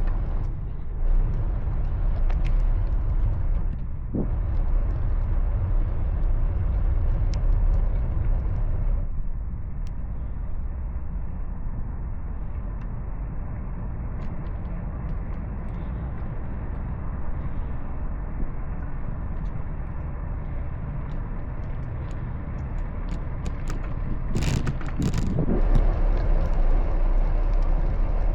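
Steady low rumble of wind and road noise on a cyclist's microphone during a ride, with traffic around. Near the end there is a brief clatter, and the rumble grows louder.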